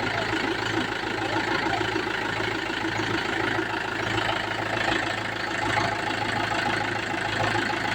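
A new Mahindra tractor's diesel engine idling steadily.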